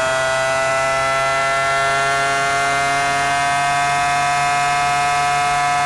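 Formula 1 V10 engine at full throttle, heard onboard: a steady, very high-pitched scream whose pitch climbs slowly as the car accelerates in one gear.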